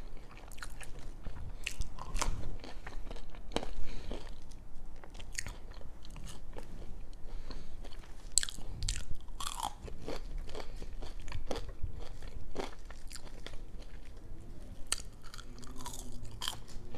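Close-up chewing and biting of food, with irregular crunches and sharp mouth clicks: a person eating a burger and crunchy oven-baked crinkle-cut fries.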